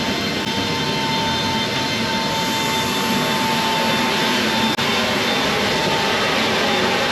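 C-17 Globemaster III's four Pratt & Whitney F117 turbofan engines running loud and steady: a dense rushing noise with a high steady whine over it.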